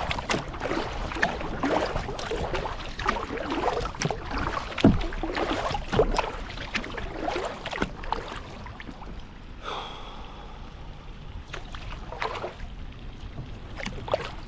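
Kayak paddle dipping and splashing in lake water, with water sloshing against the hull and one low knock about five seconds in; the splashing thins out in the second half.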